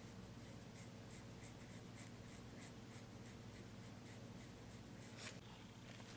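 Faint, quick scratchy strokes of a paintbrush working on a canvas, about two to three a second, with a slightly louder stroke about five seconds in.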